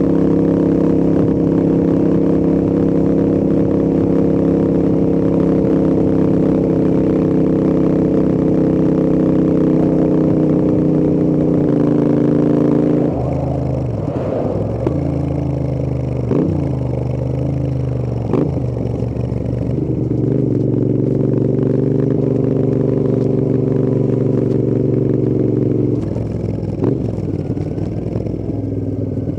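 Royal Enfield Interceptor 650's 648 cc parallel-twin engine and exhausts at steady cruising revs, then easing off the throttle about halfway through with a few sharp pops on the overrun. It settles to a steady note again and eases off once more near the end.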